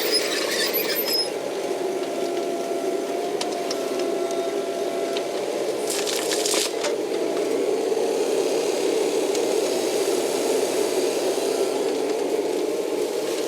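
Kubota KX080 excavator's diesel running steadily while working, with brief high squeaks near the start and a short high-pitched burst about six seconds in.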